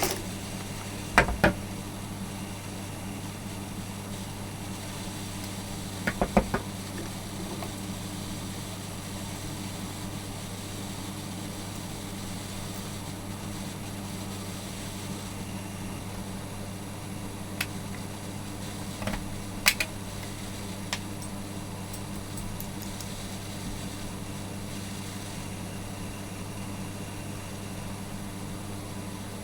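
A few small, sharp clicks and taps from handling the parts of an electric kettle's push-button switch during cleaning of its contacts, a pair about a second in, a cluster around six seconds and a few more near the twenty-second mark, over a steady low hum.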